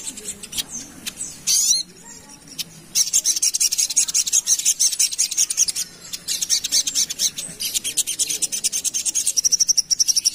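Sogon (sogok ontong) bird singing a fast, dense rattling chatter of high-pitched ticks. It comes in long tight runs from about three seconds in, with short breaks twice.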